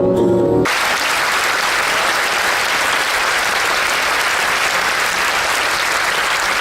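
A sung stage number with music ends about half a second in, and a theatre audience applauds steadily for the rest of the time.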